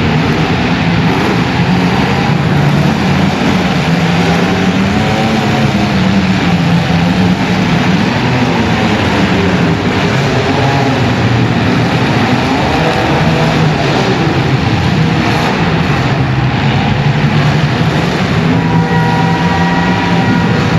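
Compact demolition-derby cars' engines revving hard, their pitch rising and falling continuously as the cars drive and push against each other. A steady, high pitched tone joins near the end.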